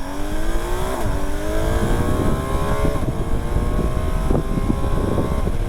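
BMW R 1250 GS boxer-twin engine accelerating hard, its pitch rising, with an upshift about a second in and another about three seconds in, then running steadily at speed.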